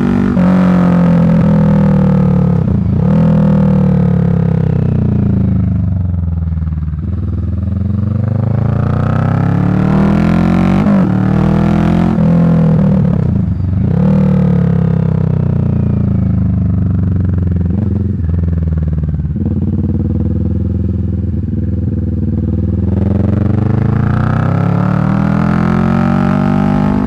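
Motorcycle exhaust of a 2023 Kawasaki Vulcan 650's parallel-twin engine through a Delkevic slash-cut muffler, heard while riding. The engine note rises and falls in pitch several times as the bike accelerates and eases off, with brief dips at the changes.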